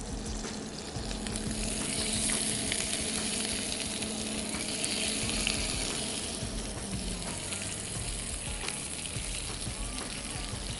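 Butterflied prawns sizzling in hot olive oil in a frying pan, a steady sizzle that swells a little in the middle.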